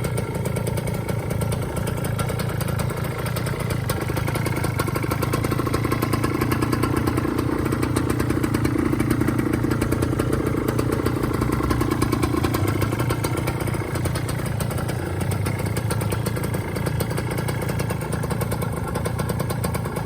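Suzuki TS125ER's single-cylinder two-stroke engine running steadily at idle, freshly rebuilt with new main and big-end bearings and a 2 mm oversize piston. The revs rise slightly for several seconds in the middle, then settle back.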